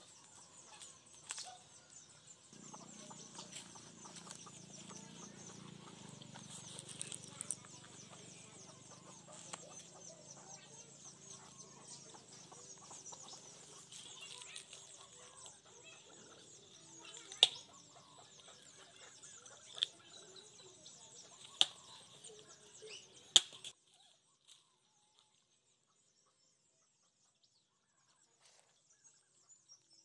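Small birds chirping and chickens clucking, over a low steady rumble. There are four sharp clicks in the second half, and the sound drops to near silence about three-quarters of the way through.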